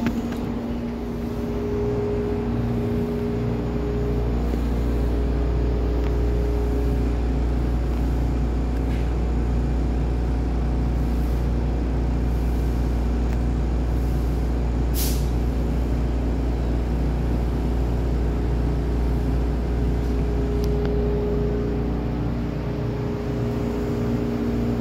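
MTR East Rail line refurbished electric train running, heard from inside the carriage: a steady low rumble with motor hum tones near the start and again near the end. There is one sharp click about fifteen seconds in.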